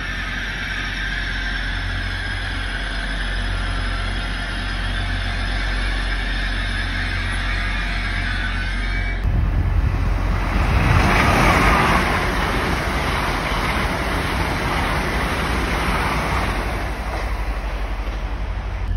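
Railway station noise. At first there is a steady hum with several steady tones from a train standing at the platform. After a cut about nine seconds in comes the louder rushing rumble of an approaching train, swelling and then holding steady.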